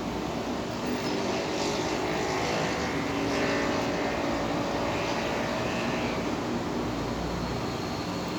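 Steady engine drone of a passing motor vehicle, a little louder from about a second in.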